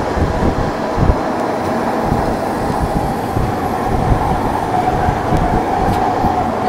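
Rhaetian Railway Bernina line train running, heard from an open-air carriage: a steady rumble of wheels on rail with irregular low knocks and a steady whine under it.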